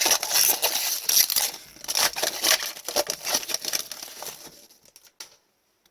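Wrapper of an Upper Deck hockey card pack crinkling and tearing as it is opened by hand, for about four and a half seconds, followed by a few light clicks before it falls quiet.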